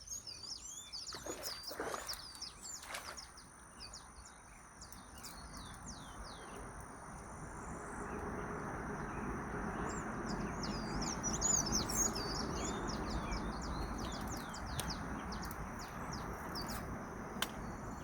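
Small birds chirping in quick repeated calls, thickest early on and again in the middle, over a steady high insect whine. From about six seconds in, a broad low rushing noise builds and holds.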